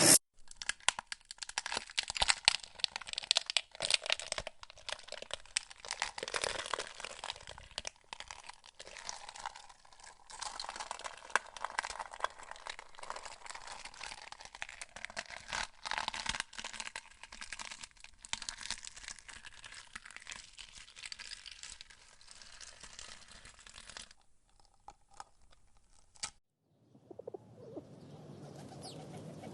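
Irregular crunching and crinkling clicks, dense and uneven, that stop about 26 seconds in. Near the end a soft, low cooing of a pigeon or dove begins.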